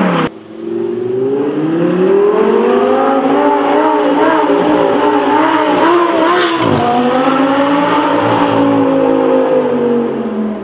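Audi R8 V10 Plus's 5.2-litre V10 through an Armytrix titanium exhaust, revving hard. The pitch climbs after a sudden drop just after the start, wavers up and down, drops abruptly a little past halfway, then rises again and slowly falls away.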